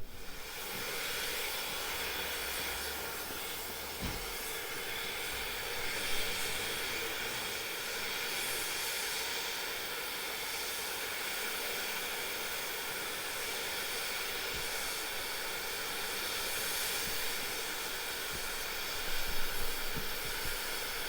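Steam locomotive letting off steam: a steady hiss with no exhaust beat, broken by a few faint knocks.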